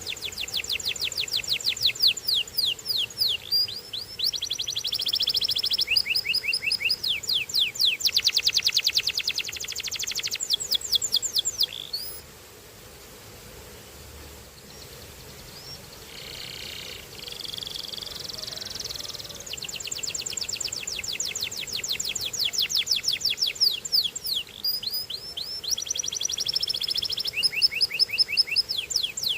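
Canary singing: long fast trills of rapidly repeated high notes, changing from one trill to the next. About midway the song drops out for several seconds with only a few soft notes, then the trills resume.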